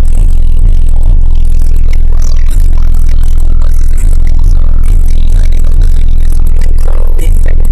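A rap track played at very high volume through a car's subwoofer system. Deep bass dominates, pulsing with the beat, and the recording is near full scale.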